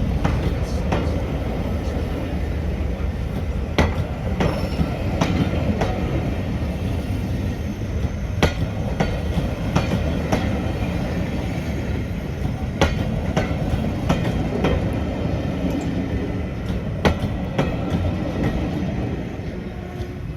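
Diesel train running along the track: a steady low rumble with irregular sharp clicks and clacks of the wheels over the rail joints.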